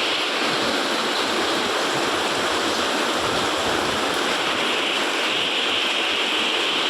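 Heavy rain falling steadily, an even, unbroken rush of water noise.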